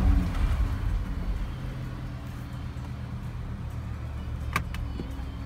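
Lamborghini Huracán's V10 engine heard from inside the cabin, its revs falling just after the start and then settling to a steady idle as the car comes to a stop. Two sharp clicks sound shortly before the end.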